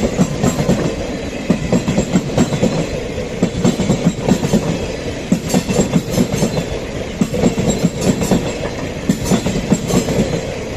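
Moving train: a steady rumble of wheels on track with sharp, repeated clickety-clack as the wheels pass over rail joints.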